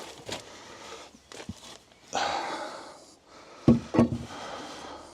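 Scrap wood pieces being handled: a scrape about two seconds in, then two sharp knocks of wood on wood near the end, with a few lighter knocks before.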